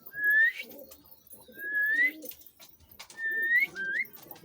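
Pet mynas making about four short rising whistled notes, a second or so apart, with low warbling calls underneath, in answer to a call to whistle.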